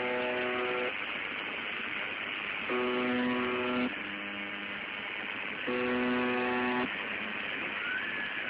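UVB-76, the Russian shortwave station known as 'the buzzer', on 4625 kHz: short monotonous buzzing tones about a second long, repeating about every three seconds, over a steady hiss of shortwave static.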